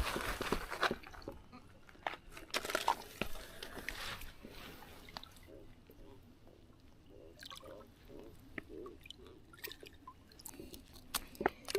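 Irregular clicks, rustles and wet squishing of a freshly landed catfish being handled and unhooked.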